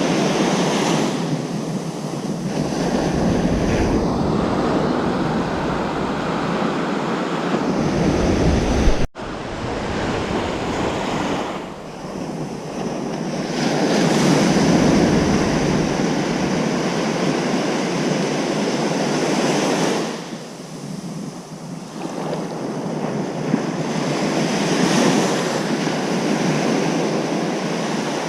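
Ocean surf washing onto a beach, a continuous rush that swells and eases every few seconds. A low rumble of wind on the microphone comes in through the first half. There is a sudden, very brief break in the sound about nine seconds in.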